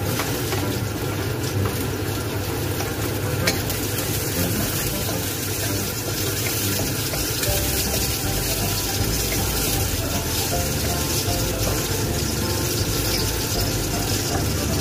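Chopped garlic sizzling steadily in hot oil in a wok, stirred with a wooden spatula, with one sharp tap about three and a half seconds in.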